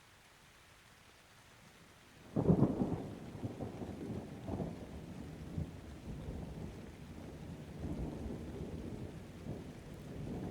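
Thunder over steady rain: a faint rain hiss, then about two seconds in a sudden loud clap that rolls on as an uneven rumble, slowly easing off.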